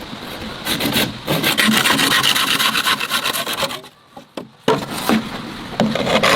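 Rapid, rhythmic rasping strokes, like something being scraped or sawn. They break off for about a second near the middle, then start again.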